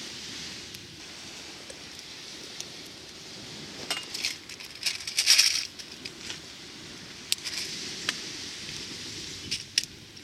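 Light metallic clinks and taps of camp cookware being handled, clustered about four to six seconds in with a few single clicks later, over a steady hiss.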